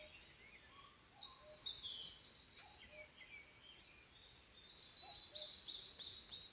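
Faint songbirds chirping and calling, several at once: short high sliding notes, with a quick run of high notes about five seconds in.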